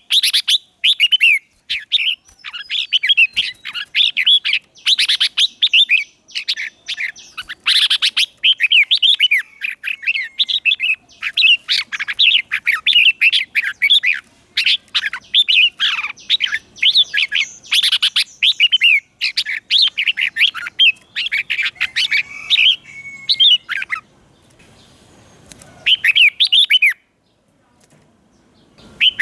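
Red-whiskered bulbul singing: quick, tumbling runs of bright whistled notes, one phrase after another. The song breaks off about four seconds before the end after one last short burst.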